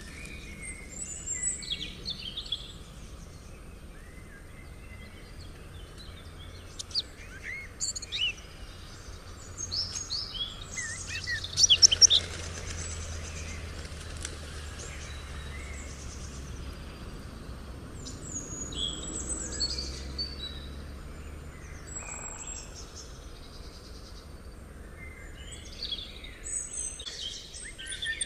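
Songbirds chirping and calling on and off, with a busier burst of calls about twelve seconds in and again near the end, over a soft steady background hiss that swells for a while in the middle.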